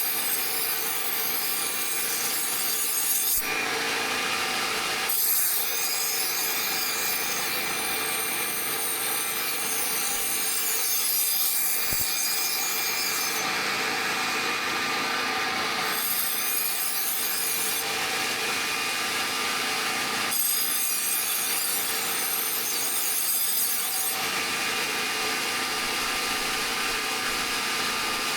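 Continuous rasping of a tool working material in a workshop, with the texture changing abruptly several times where the footage is cut.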